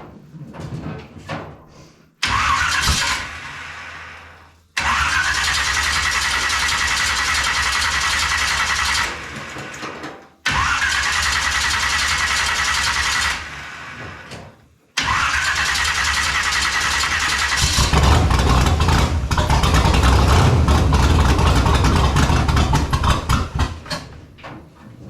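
Twin-Stromberg-carburetted engine of a 1929 rat rod being cranked on the starter in four separate spells, with a whining starter motor, while fuel is drawn up through newly fitted, empty fuel lines. About three-quarters of the way in it catches and runs for several seconds, then dies away near the end.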